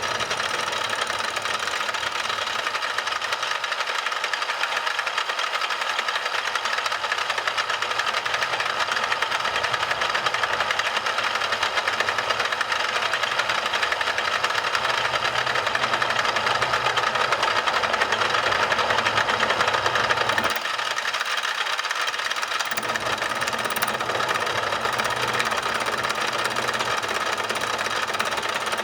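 A power tool or machine tool running steadily during metalwork on a motorcycle engine cover, with a short change in its sound about twenty seconds in.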